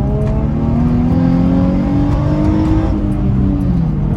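Infiniti G35's 3.5-litre V6, fitted with an aftermarket intake and the stock exhaust, pulling under acceleration, its pitch climbing steadily for about three seconds, then dropping briefly near the end before holding steady.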